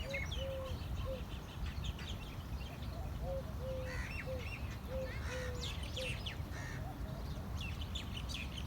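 Birds singing: a run of about ten short, low whistled notes in the first six seconds, with many high chirps from other birds over it, against a steady low rumble.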